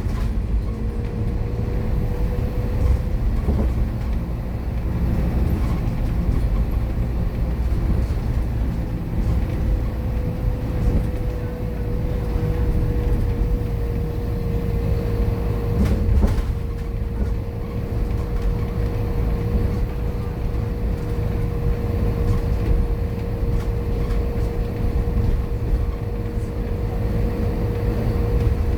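Scania K230UB single-decker bus running under way, a low engine rumble with a steady whine held at one pitch over it. A single knock sounds about sixteen seconds in.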